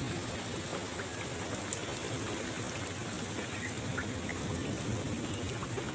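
Steady rain falling on a wet yard and puddles, an even hiss with scattered small drop plinks.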